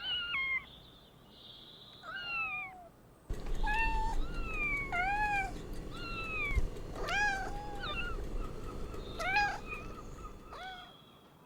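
Domestic cat meowing over and over, about a dozen separate meows, each rising and then falling in pitch.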